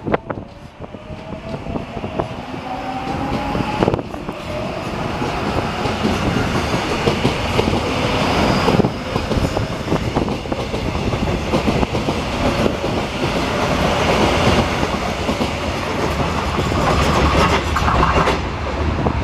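A Line 4 electric subway train moving along the platform: its traction motors give a rising whine in the first few seconds, then the rolling noise of the wheels on the rails builds and stays loud until near the end.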